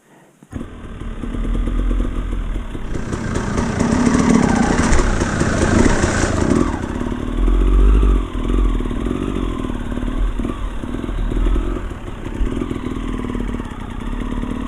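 Enduro dirt bike engine running and revving as the bike is ridden, starting abruptly about half a second in. A louder hiss from about three to seven seconds in rides over the engine.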